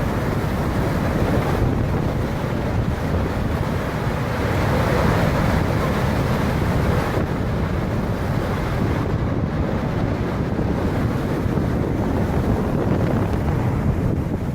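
Strong storm wind buffeting the microphone in a steady, heavy rush, with no let-up.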